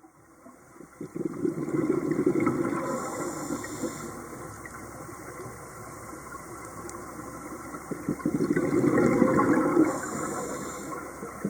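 Scuba diver breathing through a regulator underwater: two long rushes of exhaled bubbles, about seven seconds apart, each trailing off into a hiss.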